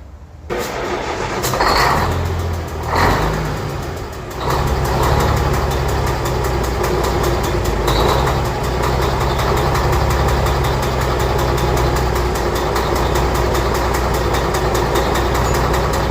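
A vehicle engine being started: it cranks from about half a second in, catches around four seconds in, and then idles steadily with an even pulse.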